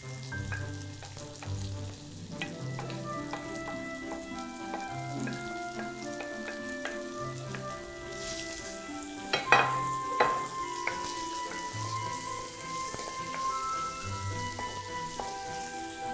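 Minced onion and garlic sizzling in olive oil in a pot while a wooden spoon stirs them, under soft background music. Two sharp knocks about halfway through are the loudest sounds.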